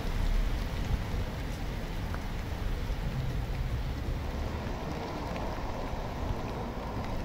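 Steady rain falling onto pavement covered in standing water, over a steady low rumble.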